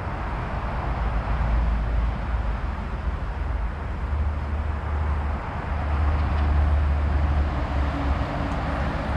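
Outdoor street noise: a steady low rumble with hiss, swelling twice, as from road traffic passing.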